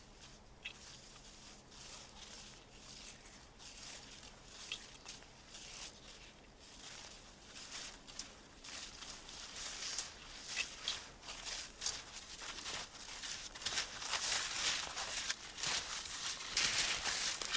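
Footsteps in snow: a run of soft, irregular steps that grow louder and closer toward the end.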